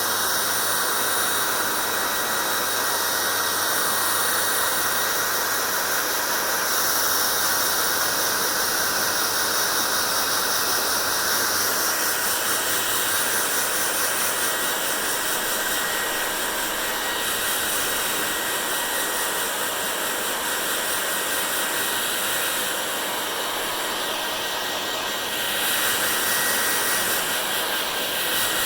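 Hair dryer blowing steadily: an even rushing hiss with a faint steady whine, getting slightly louder near the end.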